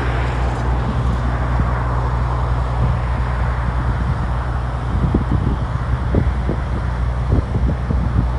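Wind noise on the microphone over a steady low hum, with gusty thumps in the second half.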